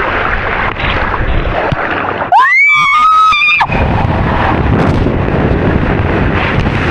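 Rushing wind and water noise on the microphone of a rider going down a water slide. About two and a half seconds in comes a loud, high-pitched scream that rises and lasts about a second.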